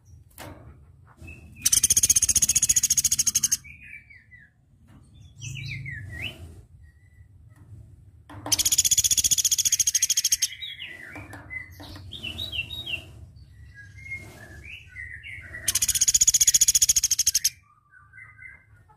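Velvet-fronted nuthatch (platuk beras) giving three loud, very rapid high-pitched trills, each about two seconds long and roughly six seconds apart. Softer short chirps and quick falling notes come between them, over a low background hum.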